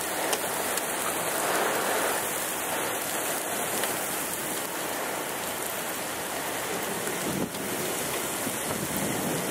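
Steady heavy rain pattering on a car's roof and windshield, heard from inside the car in the wake of a hailstorm.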